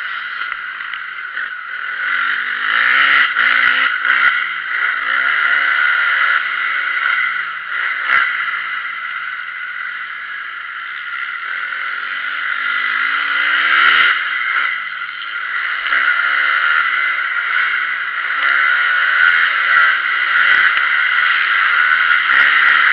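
Motocross bike engine revving up and down over and over, its pitch rising and falling every second or two, under a loud steady hiss. A few sharp knocks come through, about eight and fourteen seconds in.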